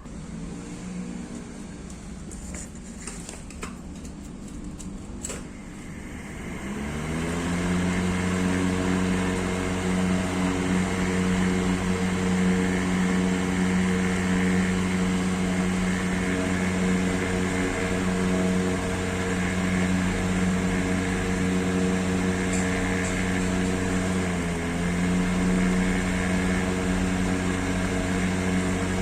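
Katsu 12-inch exhaust fan driven by a used air-conditioner outdoor fan motor, spinning up about seven seconds in and then running steadily: a motor hum with rushing air from the blades. A few clicks come before the spin-up, and the speed dips briefly late on.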